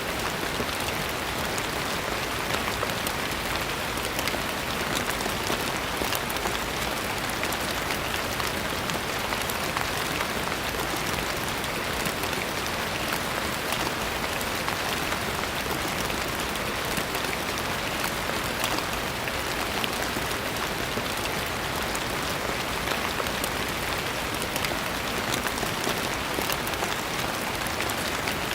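Steady rain falling, a dense even patter of many fine drops on a surface.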